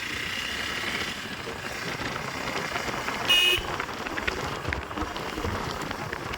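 Road traffic noise with a brief vehicle horn toot a little after three seconds in.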